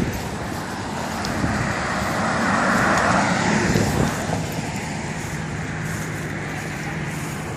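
Road traffic: a car going past, loudest about three seconds in, followed by a steady low engine hum.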